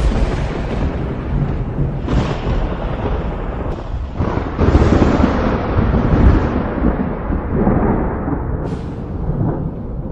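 Thunderstorm: rolling thunder rumbling continuously over rain, swelling into its loudest roll about halfway through.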